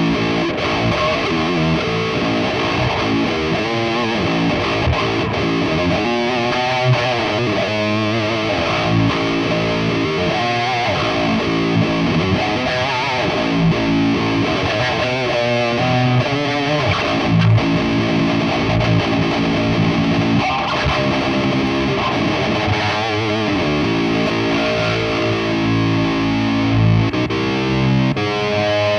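Electric guitar played through a Donner Harmonic Square harmony and octave pedal set fully wet, with distortion: a continuous run of riffs and single-note lines with bent, wavering notes.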